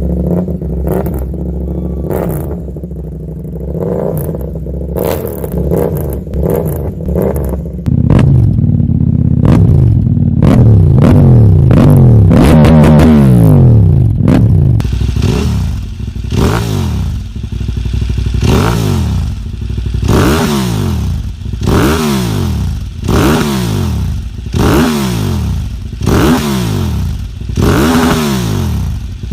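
KTM Duke parallel-twin motorcycle engines being revved in a series of separate clips. First a rough running with small throttle blips, then from about eight seconds a louder stretch of revs climbing and dropping, and from about fifteen seconds quick, sharp rev blips repeating roughly once a second.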